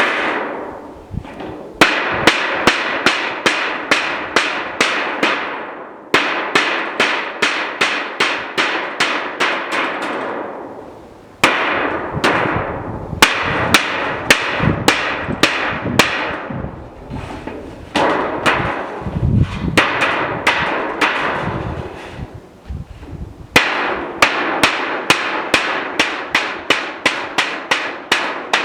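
Hammer blows in steady runs of about three strikes a second, each run lasting roughly four seconds, with short pauses between five runs.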